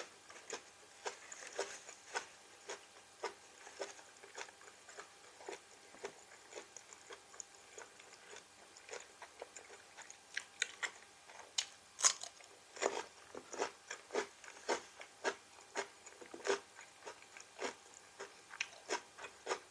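A person biting and chewing crunchy raw vegetables close to the microphone: irregular sharp crunches, one or two a second, with the loudest bite about twelve seconds in.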